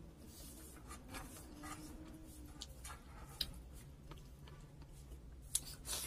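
Close-miked eating: soft chewing with small wet mouth and lip clicks as rice and food are eaten by hand, with two sharper clicks about three and a half and five and a half seconds in.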